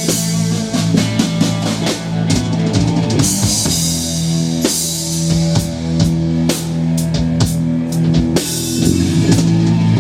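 A rock band playing an instrumental passage of a song: drum kit with frequent hits and guitar over steady sustained bass notes, with no singing.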